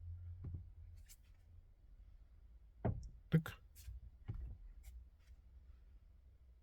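Hyundai Creta steering column clicking as the steering wheel is turned, a few short, light clicks with a sharper one about halfway through. The owner says it feels like plastic or rubber catching, somewhere around the electric power steering unit.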